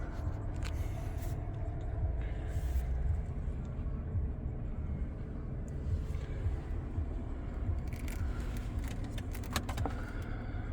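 Low, steady rumble of the Toyota Tundra's 3.4-litre twin-turbo V6 idling, heard inside the cab, with a few light clicks near the end as interior parts are handled.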